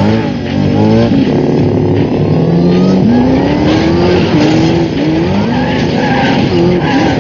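Film soundtrack of cars racing hard: several engines revving, their pitch climbing and dropping back again and again with each gear change, with tyres squealing and skidding.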